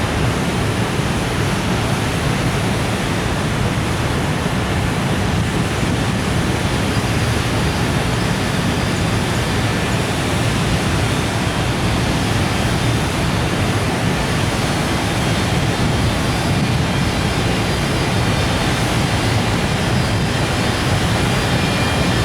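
Container freight wagons rolling past on the rails, a steady, even rumble.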